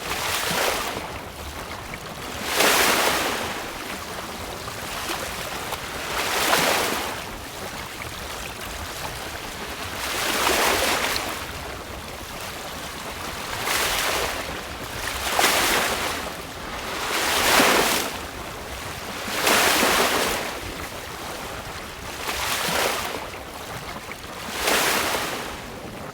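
Choppy sea water rushing and splashing along a sailing boat's hull, surging every few seconds as the boat rides the waves, over a steady background of wind and water.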